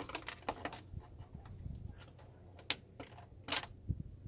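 Irregular sharp clicks and knocks of plastic parts of a car's air filter housing being handled. There are about half a dozen, the sharpest a little past halfway.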